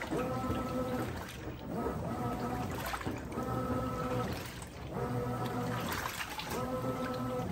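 Brastemp 17 kg washing machine agitating a load, its motor whining in repeated strokes of about a second each with short pauses between, about five times, over water sloshing in the drum.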